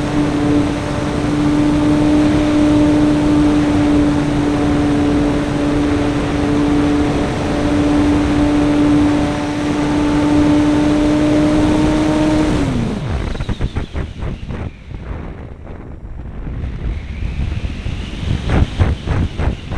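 RC model airplane's small .21-size glow engine heard from an on-board camera, running at a steady high-throttle drone. About two-thirds of the way in its pitch drops sharply as the engine is throttled back, leaving air rushing over the airframe and microphone in uneven gusts.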